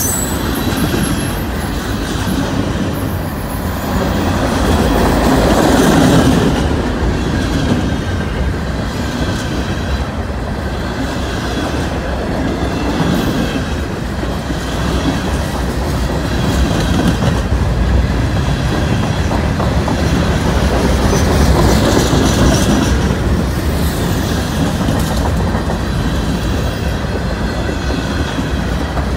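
CN freight train of tank cars and covered hopper cars rolling past close by: a steady rumble of steel wheels on the rails with a clickety-clack over the rail joints.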